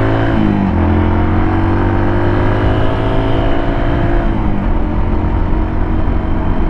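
Suzuki DR200's single-cylinder four-stroke engine running under load while riding, its pitch climbing slowly, then easing off about four seconds in, leaving a low rumble of wind and road noise.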